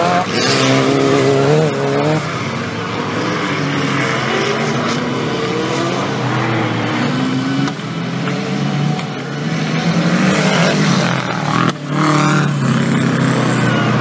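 4WD off-road race vehicles' engines running hard on a dirt course, their pitch rising and falling as the drivers accelerate and lift off, with a short dip in loudness near the end.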